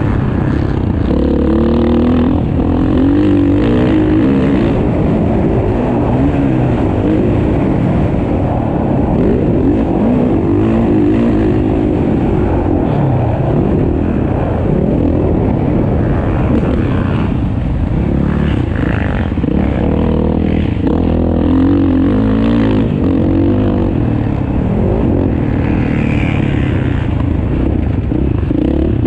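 Motocross motorcycle engine racing around a track, revving hard with its pitch climbing and dropping again and again as the rider throttles up and backs off.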